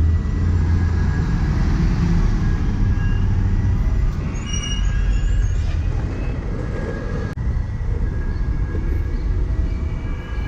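Steady, loud rumble of a vehicle in motion, with faint high-pitched squealing on top.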